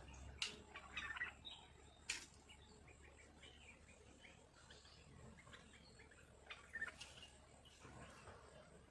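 Faint, scattered chirps of small birds, with two sharp clicks about half a second and two seconds in.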